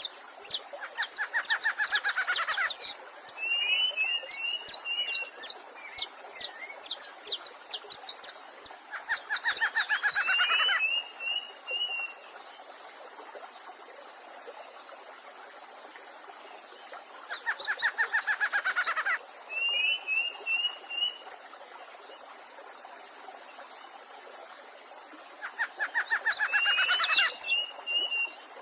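Songbirds singing over the steady rush of a stream. One bird repeats a song of rapid notes sliding down in pitch about every eight seconds, each followed by a short warbled phrase, and sharp high chirps from another bird come thick in the first third.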